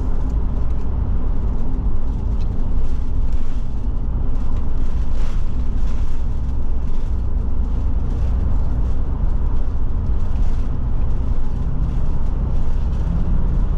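Forest River Forester motorhome driving at road speed: a steady low rumble of engine and road noise, with faint light ticks or rattles over it.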